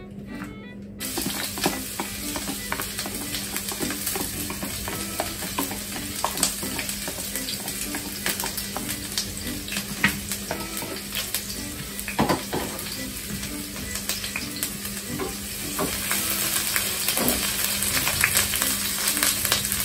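Diced green bell peppers frying in hot coconut and sesame oil in a stainless steel pan: a sizzle starts suddenly about a second in and runs on with many small crackling spits. It grows louder near the end as a wooden spoon stirs the peppers.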